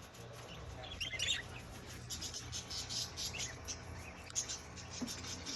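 Small birds chirping, many short high calls overlapping throughout, over a low steady hum.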